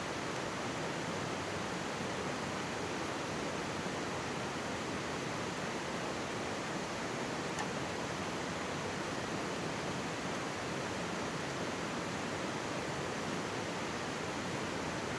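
Mountain stream rushing steadily close by, an even wash of water noise. One faint crackle from a wood campfire about halfway through.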